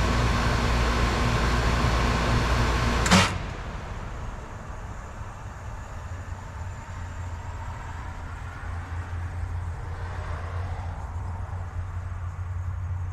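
2003 Lennox Merit heat pump running with a steady hum. About three seconds in, a sharp click as it shuts off, after which the sound drops to a quieter low hum.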